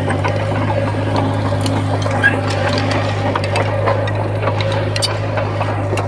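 Komatsu bulldozer's diesel engine running at a steady speed, a constant low hum with scattered metallic clicks and clanks from the machine working.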